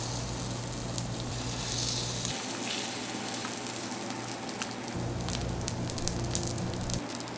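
Egg-battered pieces of fermented skate (hongeo-jeon) sizzling in oil on a hot griddle pan. There is a steady hiss with frequent small pops of spattering oil.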